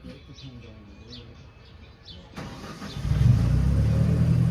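Faint bird chirps repeat about once a second, then about three seconds in the miniature train's engine starts up and runs loudly and steadily.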